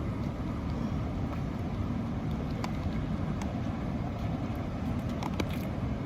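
Steady low rumbling background noise with a few faint ticks, of the kind made by wind on the microphone or distant traffic.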